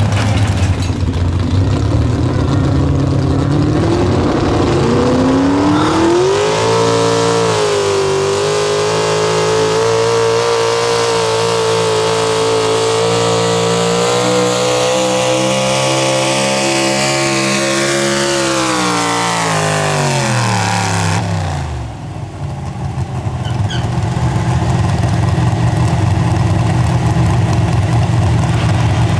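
Pulling vehicle's engine idling, then revving up over a few seconds and held at high revs for about ten seconds with a slightly wavering pitch. The revs then wind back down to a steady idle about twenty seconds in.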